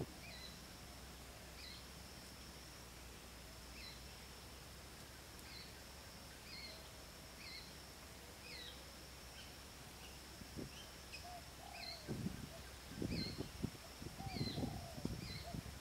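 A bird calls over and over, short falling chirps about once a second, over a steady high-pitched drone. In the last few seconds, bumps and rustles join it as a bamboo pole is handled.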